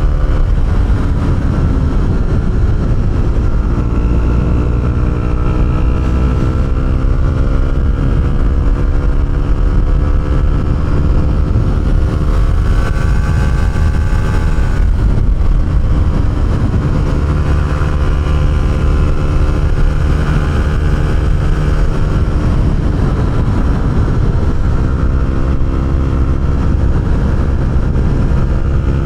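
Honda CB125R's single-cylinder four-stroke engine running through an aftermarket Arrow exhaust while riding, its revs climbing and dropping again and again through the gears and on and off the throttle.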